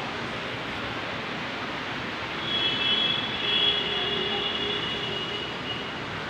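Heavy rain falling steadily. About two and a half seconds in, a high whining tone from some passing source rises over the rain and fades out just before the end.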